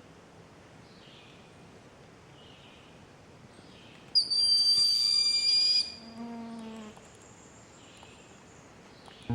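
Birds calling: faint high notes repeat about once a second, then a loud, steady, high whistle is held for over a second near the middle, followed by a weaker, lower, slightly falling note.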